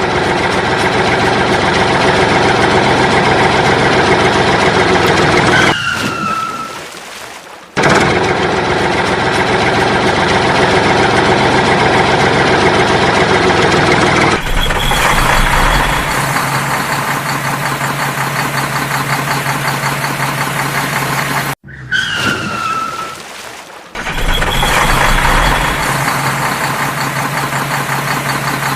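Vehicle engine running steadily. Twice it fades away with a short falling squeal, then comes straight back.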